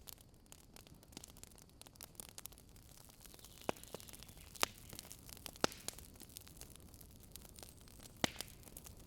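Campfire of dry wood crackling: a steady hiss laced with small sharp clicks, with four louder pops in the second half.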